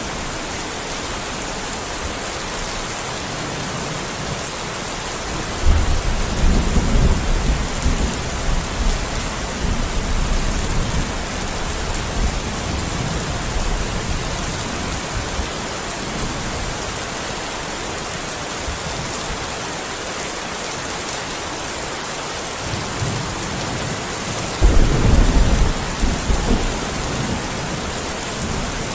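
Steady rain falling, an even hiss, with low rumbles of thunder rolling in twice: one about six seconds in that lasts several seconds, and a shorter one near the end.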